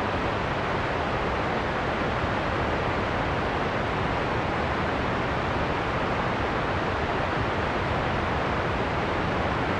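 Steady, dense rushing noise of a heavy rain-and-wind storm soundscape, even throughout, with deep bass and a dull top and no separate drops or gusts standing out.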